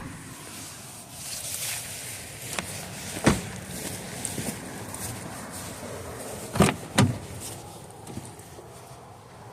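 Handling of a 2017 Mitsubishi Outlander's interior fittings: rustling with sharp clacks, one about three seconds in and two close together near seven seconds.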